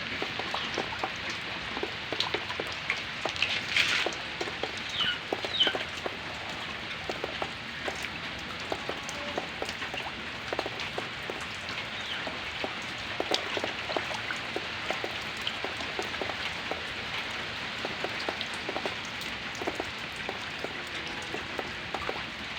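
Steady rain falling, with many small drop impacts ticking on nearby surfaces. A few brief high calls come a few seconds in.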